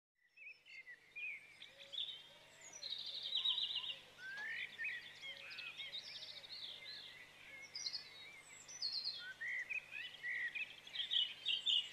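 Several small birds chirping and singing, with short whistled notes and rapid trills coming again and again, over a faint steady low hum.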